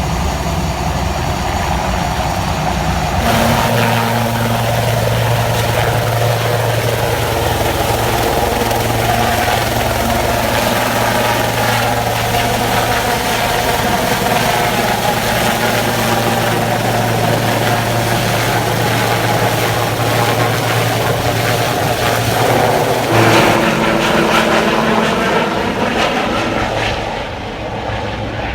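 Medical helicopter's rotor and engine running loudly during takeoff, with a strong steady low tone under the rotor noise. The sound grows louder about three seconds in, shifts again after about twenty-three seconds, and starts to fade near the end.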